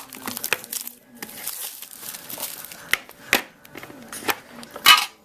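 Trading-card pack wrapper being torn open and crinkled by hand: scattered sharp crackles, with two louder bursts of crinkling, one past the middle and one near the end.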